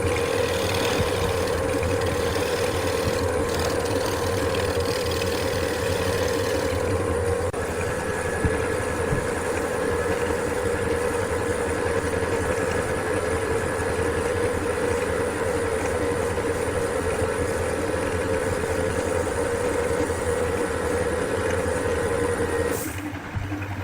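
Wood lathe running steadily with a constant motor hum. The sound changes abruptly near the end.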